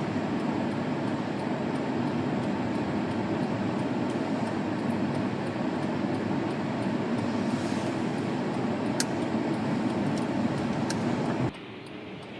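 Steady road and tyre noise of a car driving, heard inside the cabin. It drops off suddenly near the end.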